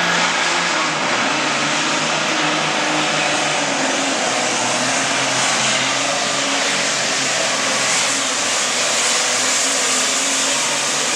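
Hot farm class pulling tractor's engine running flat out under load as it pulls the weight sled, a loud, steady engine noise with no letup.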